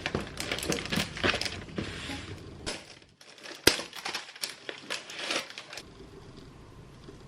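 Crinkling and rustling, with irregular light clicks and knocks, like something being handled, stopping about six seconds in.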